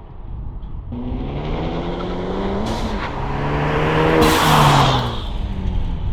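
Ford Focus ST's turbocharged 2.0-litre four-cylinder through an AWE Touring resonated exhaust, driving past under acceleration: the engine note climbs as the car approaches, is loudest about four to five seconds in, and drops in pitch as it passes.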